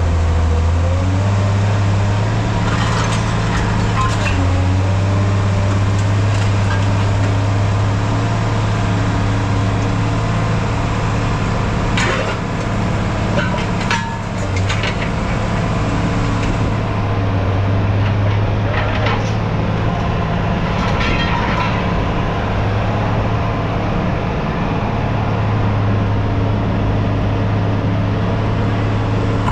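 An engine running steadily at idle, with a few sharp knocks and clanks spread through it, typical of scrap metal being handled.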